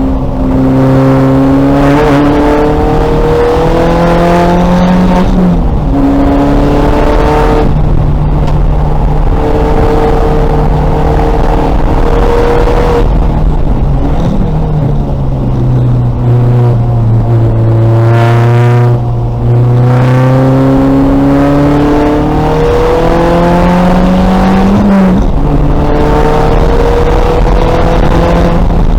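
Race-prepared 2000 VW Golf engine running hard through a lap. Its pitch climbs under throttle and drops sharply at gear changes, about five seconds in and again near the end, and falls off more slowly for a while in the middle as the car slows for a corner.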